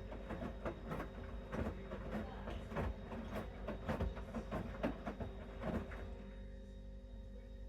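Bosch Series 6 front-loading washing machine in its main wash, the drum tumbling a wet mixed load with irregular soft thuds and water swishing over a steady motor hum. The drum stops turning about six seconds in, leaving only the hum, the usual pause between tumbles.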